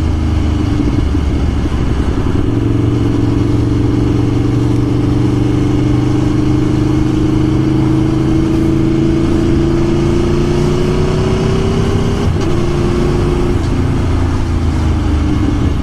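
Aprilia Tuono V4 1100's V4 engine pulling under way, its pitch climbing slowly for about ten seconds as the bike gathers speed. About twelve seconds in the pitch drops at a gear change, then it starts to climb again.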